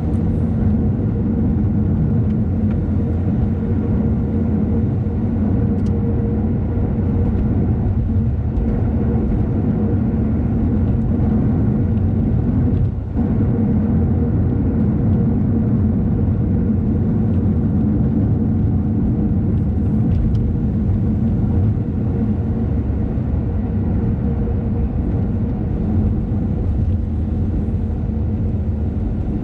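Car engine and road noise while driving, a steady low hum with a brief drop about thirteen seconds in.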